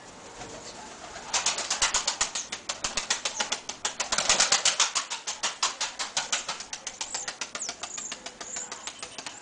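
Takla tumbler pigeon's wings flapping hard in a long, even run of quick beats, about seven or eight a second, starting about a second in, loudest around the middle and weakening toward the end.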